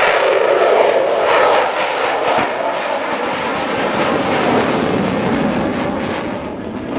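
Loud jet noise of an F-22 Raptor's twin F119 turbofans as the fighter flies past. It is a steady, dense roar whose pitch slides down over the first couple of seconds.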